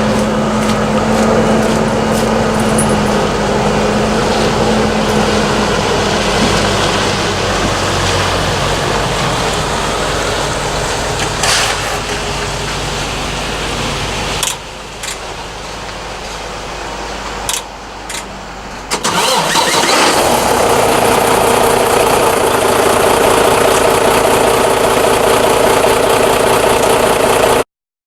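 Semi truck diesel engine being cranked by its starter and then running, started right after a fuel filter change and priming. A steady starter whine lasts about the first six seconds; the sound drops partway, with a few clicks, then comes back louder and steady until it cuts off suddenly near the end.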